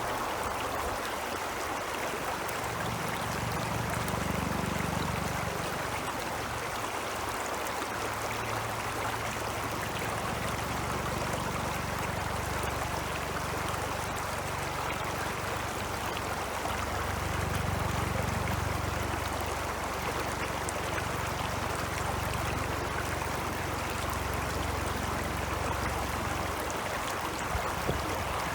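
Ice-melt stream flowing: a steady rushing of water, with a low rumble that swells and eases a couple of times.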